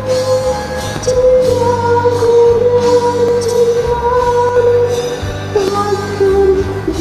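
Instrumental break in a karaoke backing track of a slow pop song: a long held lead melody that steps down in pitch a little past halfway, over a steady bass line and light percussion ticks.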